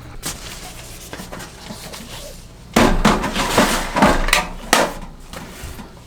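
Objects being handled: a few light clicks, then about halfway through a loud burst of clattering knocks lasting about two seconds.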